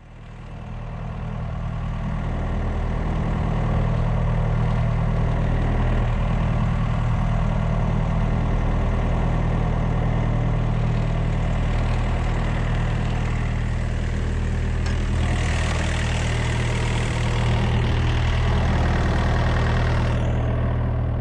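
Diesel engine idling steadily with an even low hum, fading in over the first couple of seconds.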